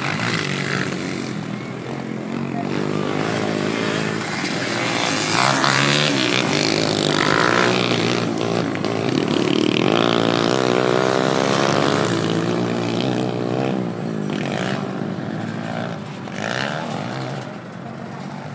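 Several motocross dirt bike engines revving and changing pitch as the bikes race past. They are loudest through the middle stretch and ease off near the end.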